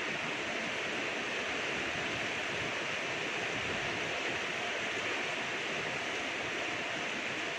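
Steady rain falling: an even hiss with no separate drop impacts standing out.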